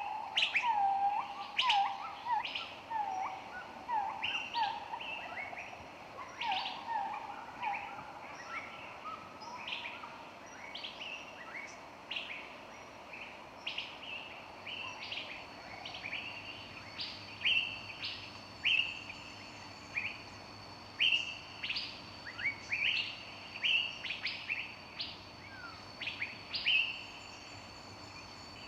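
Several songbirds singing and chirping, with quick high chirps and short sweeps throughout. For the first ten seconds or so a lower bird repeats a short call about twice a second.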